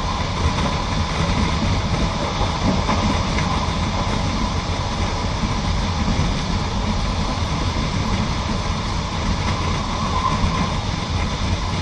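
Passenger train running along the track, heard from inside the carriage: a steady noise of wheels on rails that holds level throughout.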